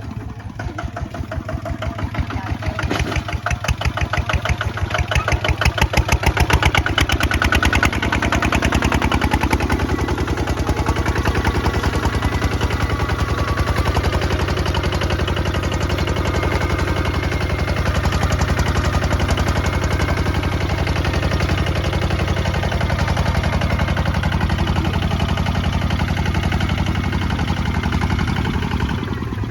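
Kubota ZT155 DI single-cylinder diesel engine of a walking tractor running with a rapid, even firing beat. It grows louder over the first several seconds, then holds steady.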